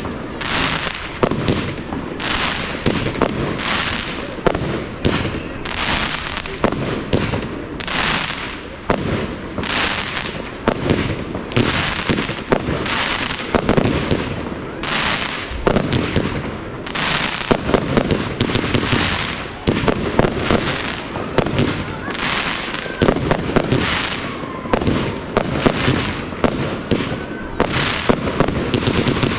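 Fireworks display: a steady, rapid run of shell bursts and bangs, about one or more each second, over continuous crackle and rumble.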